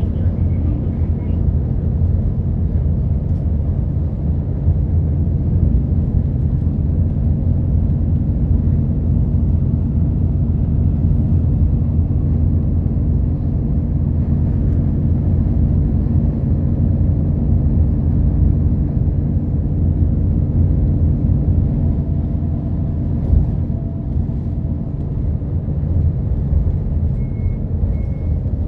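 Route bus engine and road noise heard inside the cabin while driving, a steady low rumble. Near the end, a short high beep starts repeating at an even pace.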